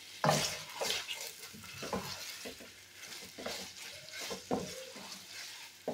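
Diced raw chicken breast sizzling in hot oil in a stainless steel pan, stirred with a wooden spatula that scrapes and knocks the pan in repeated irregular strokes over a steady hiss of frying.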